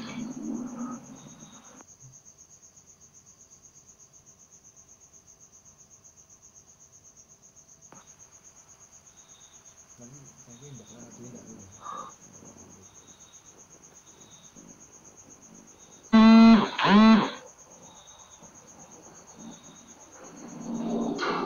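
Crickets chirring steadily in a high, fast-pulsing trill. About sixteen seconds in, two loud, short voice-like cries rise and fall in pitch.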